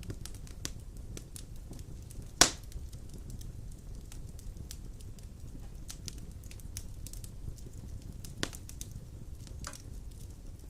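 Wood fire of large logs burning in a stone fireplace: a steady low rumble with scattered crackles and snaps, one loud pop about two and a half seconds in and a smaller one near the end.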